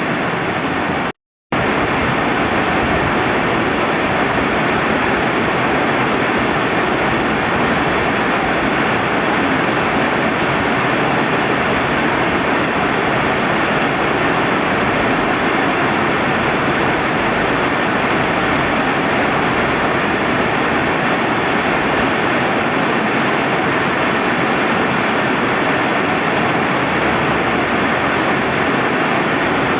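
Steady, heavy rain by a river: a dense, even hiss of rainfall and running water. It cuts out completely for a split second about a second in, then resumes unchanged.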